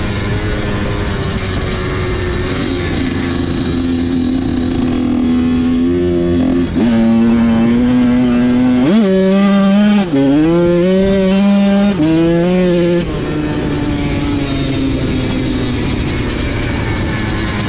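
Dirt bike engine running under riding load. Its pitch holds steady for stretches and shifts up and down between them, and it is louder and revs harder through the middle seconds.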